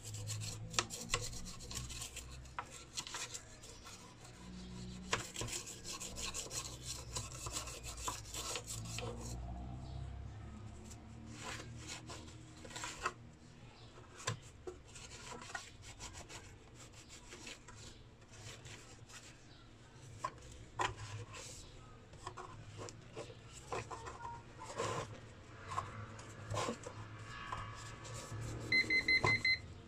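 Irregular rubbing and scraping strokes from cleaning soot off a burnt inverter circuit board. A short pulsed beeping tone sounds near the end.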